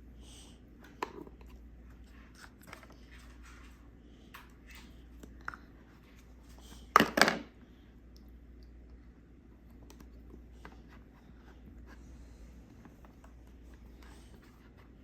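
Small plastic clicks and taps from handling Play-Doh toy pieces and tools, with a louder clatter of plastic about seven seconds in.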